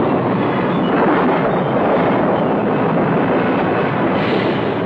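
Loud, steady rushing noise with no pitch to it, the soundtrack's effect for the earthquake and its tidal wave.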